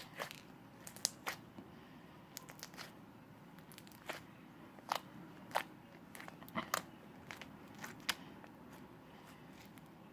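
Slime being mixed and squeezed by hand, giving irregular sharp clicks and pops as air pockets burst.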